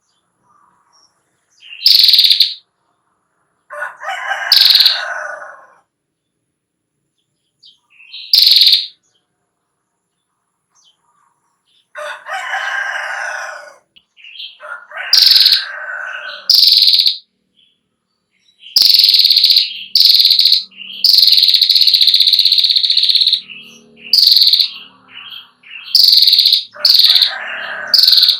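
Female prenjak klawu (a prinia) giving its ngetir call: sharp, high trilling bursts of under a second, coming faster toward the end, with one longer trill of about two seconds past the middle. Lower, drawn-out calls of another bird come in between, four times.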